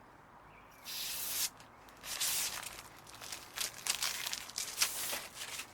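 Protective plastic film being peeled off a new clear windshield, tearing and crinkling in several pulls.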